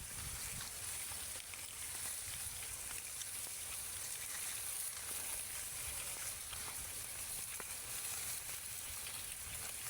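A steady crackling hiss over an uneven low rumble, with no clear call or voice standing out.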